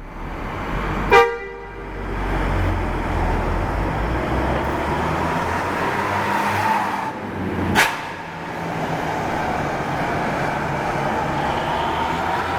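A large vehicle engine running steadily, with a short horn toot about a second in and a sharp knock-like pop near the eight-second mark.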